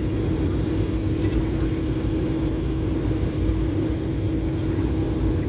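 A jet airliner's steady low rumble with a constant engine hum.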